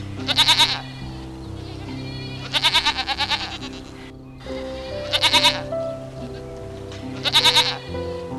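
Four quavering bleats from a farm animal, about two seconds apart, over background music with steady held notes.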